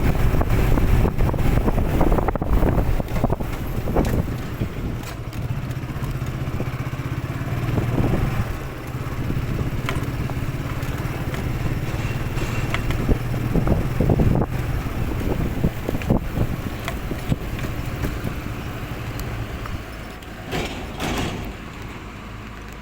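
Motorcycle running: a steady low engine drone under rough noise, with scattered knocks and scrapes, the level dropping off near the end.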